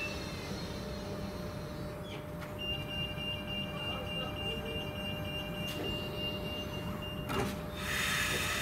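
Railway sound: a low train rumble with a steady high-pitched tone lasting about four and a half seconds from about two and a half seconds in. A short knock comes near the end, then train noise swells up.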